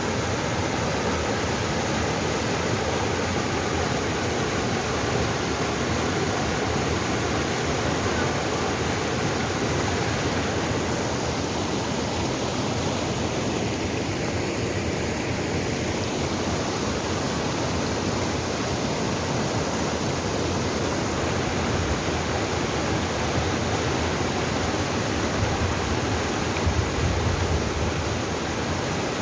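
Mountain valley stream rushing steadily, an even unbroken rush of water.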